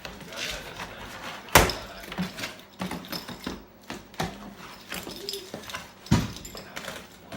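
Handling clatter: sharp knocks and small clicks of objects being moved and set down. The loudest knock comes about a second and a half in and another near the end, with faint talk underneath.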